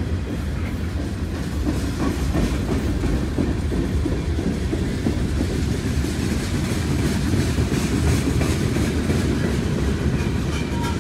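CSX freight train cars rolling past: a steady low rumble of steel wheels on rail, with the clickety-clack of wheels over the rail joints, more marked in the second half.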